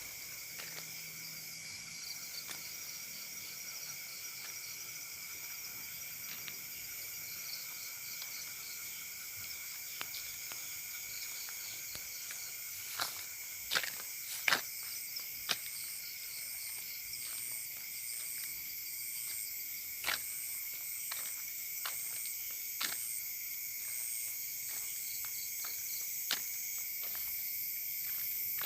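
Night chorus of crickets and other insects: several steady, high-pitched trills overlap, and one chirps in even pulses about once a second through the middle stretch. A few sharp clicks stand out, the loudest clustered about halfway through.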